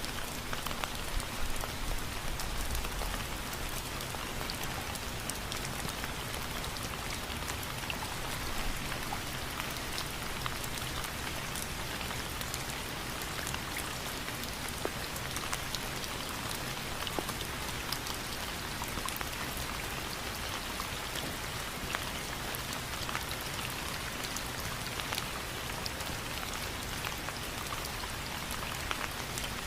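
Steady rainfall, an even hiss with many individual drops ticking on a surface.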